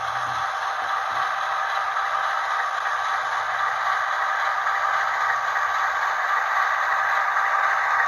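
DCC sound decoder's diesel engine sound, from the speaker of a Blue Tiger HO-scale model locomotive, running steadily and thin and tinny through the small speaker. It grows slightly louder toward the end.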